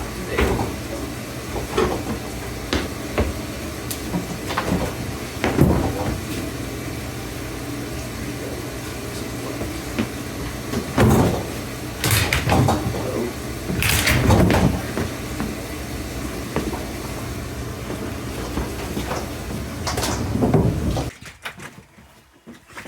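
Repeated knocks, scrapes and rattles over a steady low hum, louder for a few seconds in the middle; the hum stops suddenly near the end.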